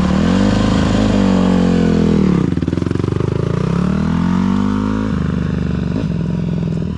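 Honda CRF150R dirt bike's four-stroke single-cylinder engine revving up through the gears twice, easing off about two and a half seconds in and again about five seconds in.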